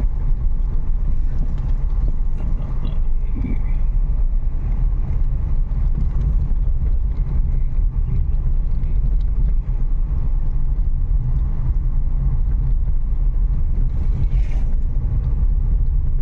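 Steady low rumble of road and engine noise heard from inside the cabin of a Renault Kiger compact SUV being driven.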